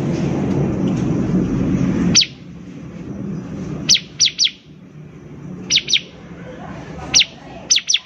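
Bar-winged prinia (ciblek) calling: short, sharp high chirps that sweep downward, given singly and in quick runs of two or three. For the first two seconds a loud low rumble sits under them, and it cuts off suddenly.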